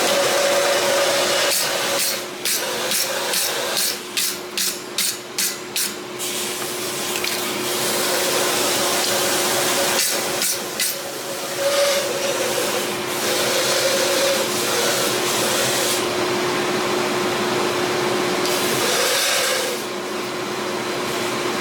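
Forge running with a steady hiss and a low hum while the workpiece heats, with a quick run of light clicks a couple of seconds in.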